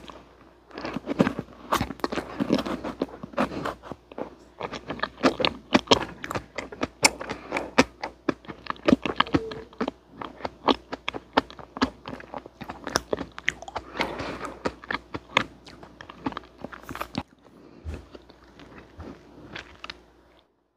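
Close-miked chewing of a soft dessert: a fast, irregular run of sharp mouth clicks and smacks that thins out a few seconds before the end.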